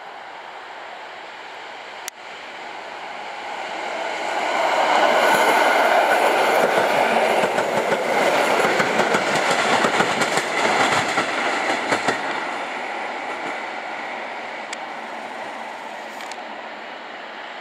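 PolRegio EN57AL electric multiple unit passing close by: its running noise builds over a few seconds and is loudest for about seven seconds as the cars go by, with a rapid clatter of wheels over the rail joints. It then fades as the train moves away.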